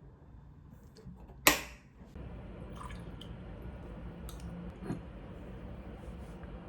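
A sharp click, then water starts running steadily about two seconds in, with a few light clinks over it.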